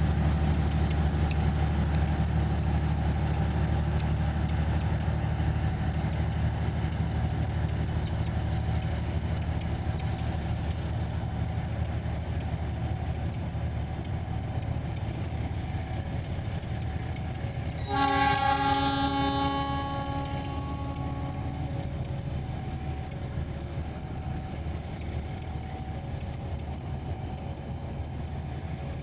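Crickets chirping in a steady, evenly pulsing high trill over the low rumble of a passenger train pulling out and slowly fading. About 18 seconds in, the locomotive's horn sounds once, a chord of steady tones lasting about two seconds.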